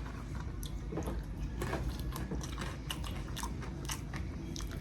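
Close-miked chewing and biting: wet mouth sounds and many small, irregular crisp clicks, over a steady low hum.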